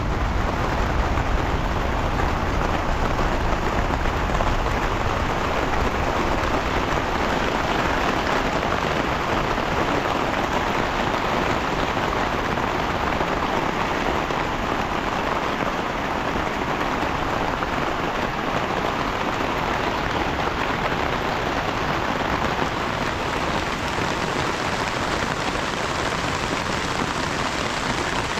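Steady, heavy rain falling, an even hiss of drops that holds without a break.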